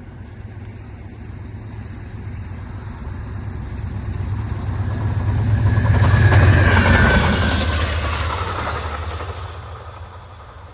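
Passenger train passing by. The rumble builds for several seconds, is loudest a little past the middle, then fades away.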